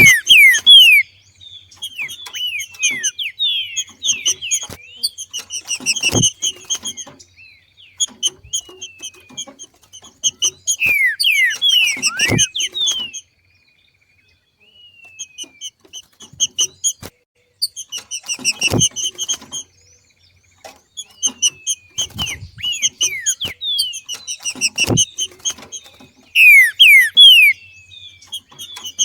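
Green-winged saltator (trinca-ferro) giving its 'macheado' call, repeated bouts of fast, sharply falling chirped notes with short pauses between bouts, the call made in breeding condition. A few dull thumps come through between the bouts.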